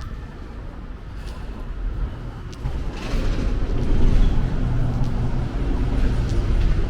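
Street traffic: a motor vehicle's engine rumbles close by, swelling louder about three seconds in and staying up.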